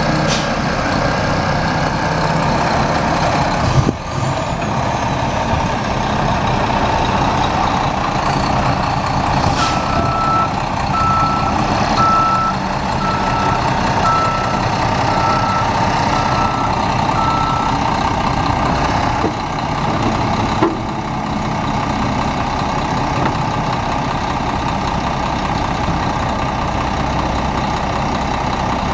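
Cummins ISM six-cylinder turbo diesel of a 2004 Terex Advance tri-axle concrete mixer truck running steadily. In the middle, the truck's reversing alarm beeps about a dozen times at an even pace, and there are a couple of sharp clicks.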